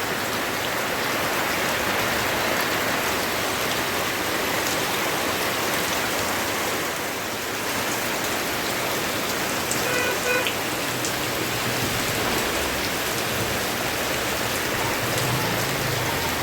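Steady, dense rain falling and pattering on surfaces.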